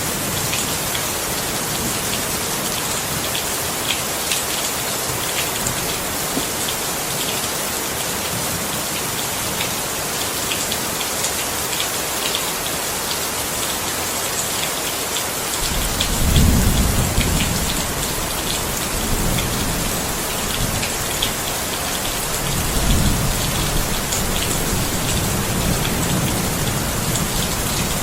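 Steady heavy rain with many distinct drop ticks. From a little past halfway, low thunder rumbles come in three or four waves under the rain.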